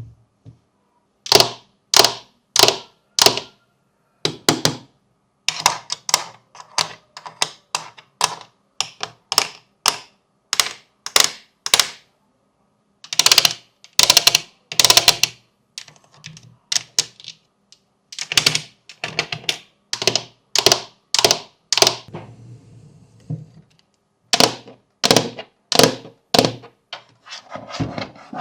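Fidget toys being clicked and pressed by hand: a long series of sharp clicks, about two a second, in runs broken by short pauses.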